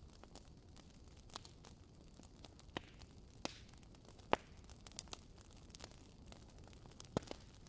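Firewood burning in a fireplace: irregular sharp pops and snaps over a low steady hiss, the loudest pop a little past halfway.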